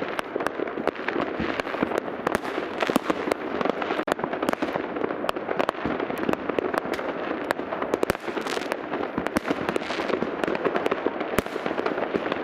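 Many fireworks going off at once, near and far: a dense, continuous crackle with sharp bangs scattered all through it.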